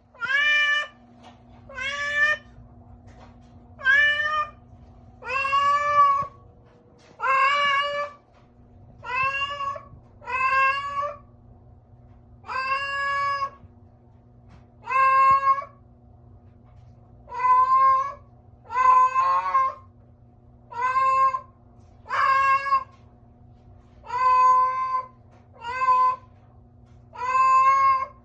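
Domestic cat meowing over and over, about sixteen short pitched meows spaced a second and a half to two seconds apart, each rising slightly at the start.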